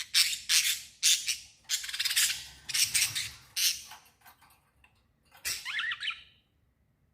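Small birds chirping: a quick run of short, harsh chirps for the first four seconds, thinning to a few faint ones, then a brief call of fast sliding notes about five and a half seconds in.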